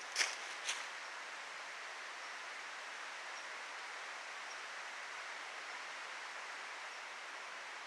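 Quiet outdoor ambience: a steady, even hiss with two sharp clicks within the first second, and a faint high-pitched chip repeating about once a second.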